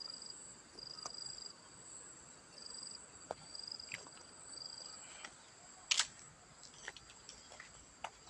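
Insects chirring in the undergrowth: a steady high-pitched buzz, with a second insect trilling in short bursts roughly every second. Scattered clicks and snaps sound over it, the sharpest about six seconds in.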